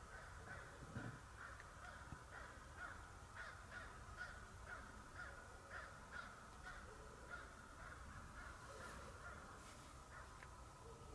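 Faint bird calls repeated about twice a second, a long even series that fades out around eight seconds in.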